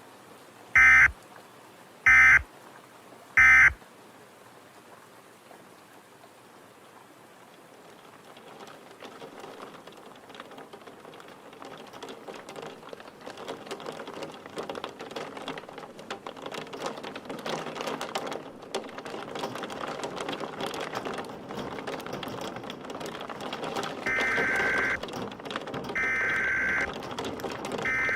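Emergency Alert System SAME data bursts: three short buzzy end-of-message bursts about a second apart close the warning. Then rain-like storm noise swells slowly, and near the end the longer one-second header bursts of the next alert begin, one after another.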